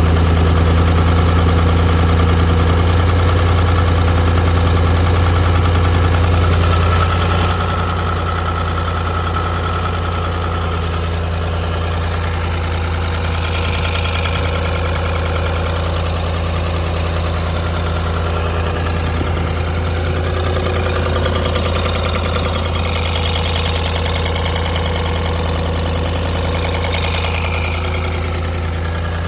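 Supercharged 4.3-litre V8 of a Toyota Crown Majesta (UZS186) fitted with a TOM'S supercharger, idling with a steady low drone that drops slightly in level about seven seconds in. It carries the abnormal noise that the owner puts down to the supercharger.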